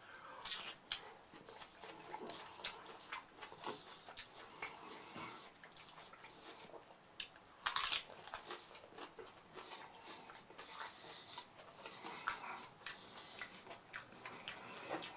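A person biting into and chewing crunchy hard-shell mini beef tacos, with irregular crisp crunches; the loudest bite comes about halfway through.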